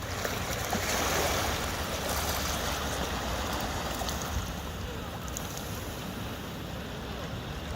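Ocean waves breaking and washing in, a swell of surf about a second in that slowly eases off.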